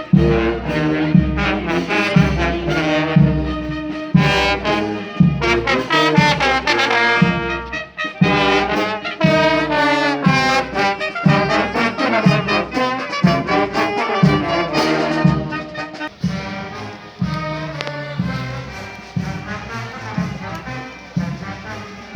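Brass band playing, with trumpets and trombones carrying the melody over a steady bass beat about twice a second, growing softer in the last few seconds.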